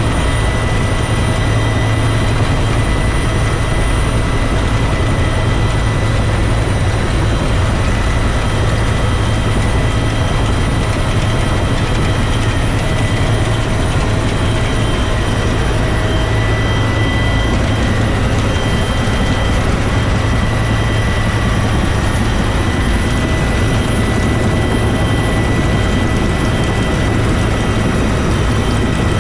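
Bell UH-1 Huey helicopter running steadily: its turbine engine and rotor make a continuous low drone with a thin high whine over it.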